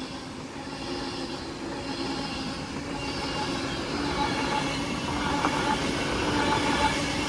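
Class 390 Pendolino electric train passing through the station: a steady rumble of wheels on rail with the hum of its traction equipment, growing gradually louder.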